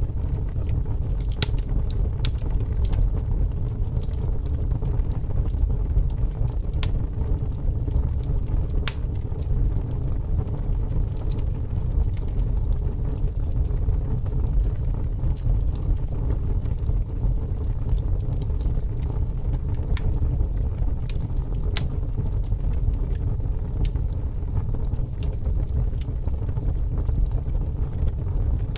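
A fire burning: a steady low rumble of flames with scattered sharp crackles and pops from the burning wood.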